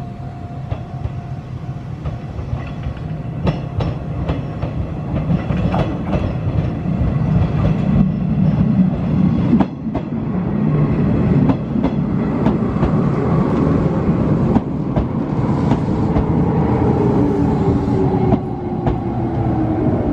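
Izuhakone Railway 5000-series electric commuter train drawing near and running past close by, its wheels clacking over the rail joints. In the last few seconds a whine falls steadily in pitch as the train slows.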